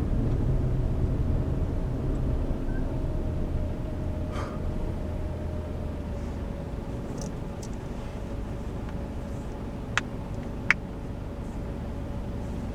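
Car cabin noise while driving: a steady engine and road rumble that gradually fades, under a faint steady hum. Two sharp clicks about ten seconds in.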